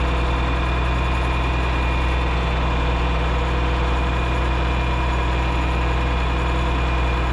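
Tractor engine running steadily at an even speed, with no change in pitch.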